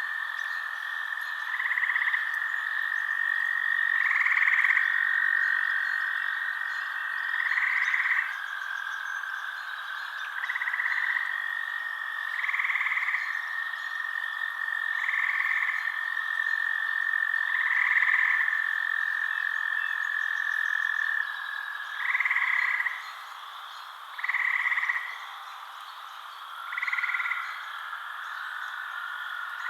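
Frogs calling at night: a steady high trill under louder, roughly one-second calls that repeat every two to three seconds. The steady trill stops about two-thirds of the way through while the repeated calls go on.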